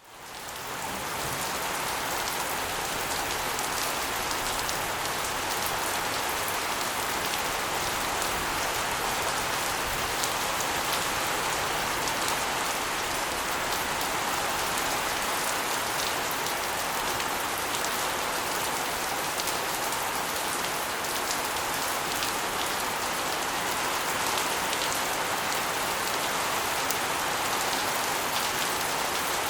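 Rainwater spilling off the edge of an asbestos roof and splashing onto a concrete floor and walls: a steady, dense patter of drops and splashes. It fades in over the first second.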